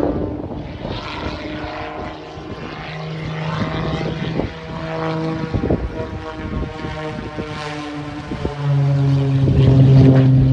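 Aerobatic propeller plane's engine and propeller running in flight, the pitch shifting up and down in steps. It grows louder and deeper about eight and a half seconds in.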